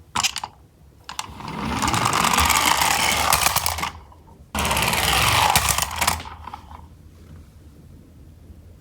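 Small die-cast toy trucks rolling down a slope track with a rattling clatter of little wheels. There are two runs: one building up about a second in, and a second starting suddenly halfway through and dying away.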